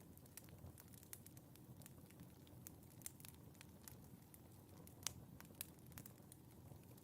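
Wood fire in a fireplace crackling quietly: irregular sharp pops and snaps over a soft low rumble of the flames, with one louder pop about five seconds in.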